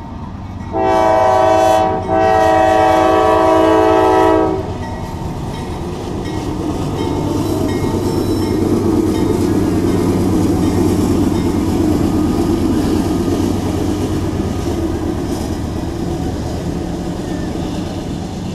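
Diesel freight locomotive sounding its air horn in two blasts, a shorter one and then a longer one, in the first few seconds. After that, the train rolls past with a steady rumble of wheels on rail over the low drone of the engine.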